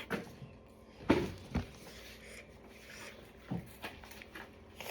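A few soft knocks with light rubbing and rustling between them: one about a second in, another half a second later, and a third past the middle.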